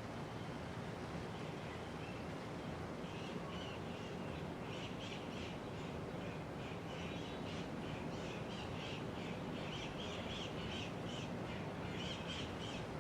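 1983 Casablanca Panama five-blade ceiling fan running steadily, a low hum under even air noise. From about three seconds in, a rapid run of short high chirps sits over it.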